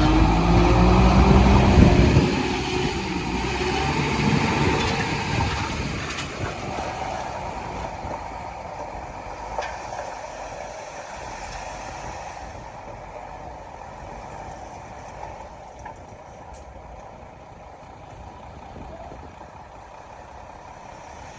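Heavy earthmoving machine's diesel engine running hard, its pitch falling over the first few seconds. It then settles and fades to a quieter steady running.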